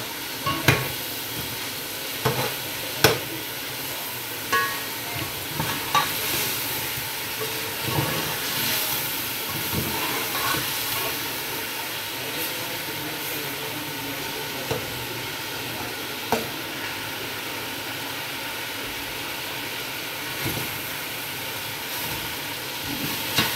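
Chicken pieces sizzling in oil and spices in an aluminium pot as the masala fries, with a steady frying hiss throughout. A perforated metal skimmer scrapes and knocks against the pot as it is stirred, the knocks coming now and then and more often in the first half.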